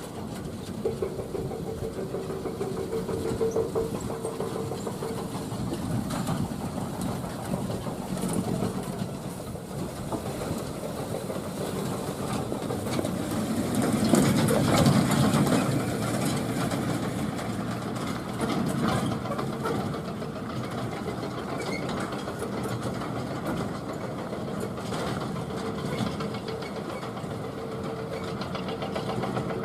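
Truck engines running, with a steady drone that swells to its loudest about halfway through.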